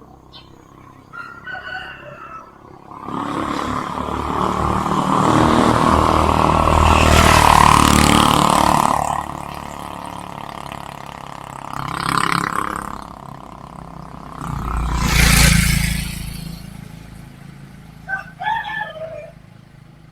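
Vehicles passing close by on a village road. A long, loud pass swells and fades between about three and nine seconds in, and a shorter one comes around fifteen seconds. A rooster crows.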